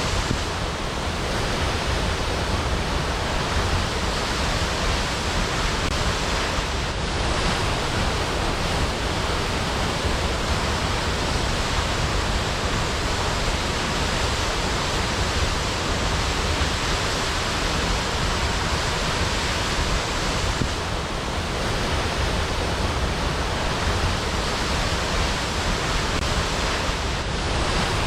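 Waterfall: falling water pouring steadily in an even, unbroken rush.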